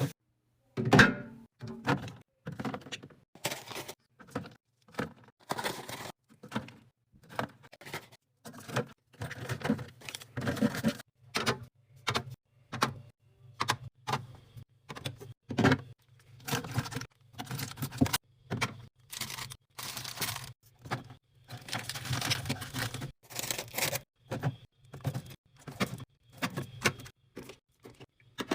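Fridge restocking handling sounds: containers and packaging picked up and set down in a quick string of knocks, clinks and rustles with short gaps between them.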